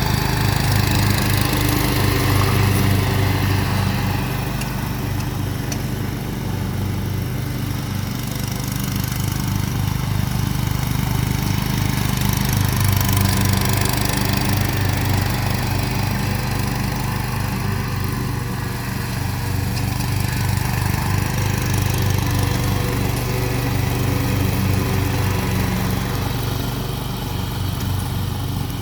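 Kawasaki twin-cylinder mower engine running steadily at a fast idle, just started on a replacement ignition coil: the no-start fault is cured and it runs smoothly.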